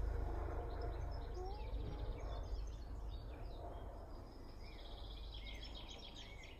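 Faint birdsong: scattered short chirps, with a rapid trill near the end, over a low steady rumble.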